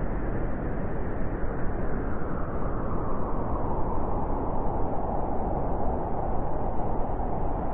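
Winter wind blowing steadily: a continuous low rushing noise that grows a little stronger partway through.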